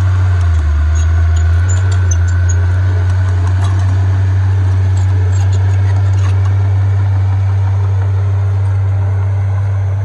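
Heavy earthmoving machinery's diesel engine running with a steady, deep drone. Its pitch dips briefly about a second in, and light metallic clicks sound over it in the first few seconds.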